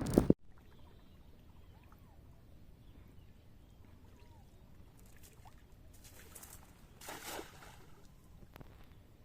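Faint water sloshing and trickling, with a brief louder rush of noise about seven seconds in. A loud sound at the very start cuts off abruptly.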